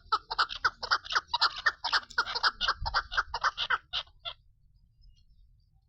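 Female chukar partridge (chakor) calling: a fast, even series of short notes, about five a second, that stops about four seconds in.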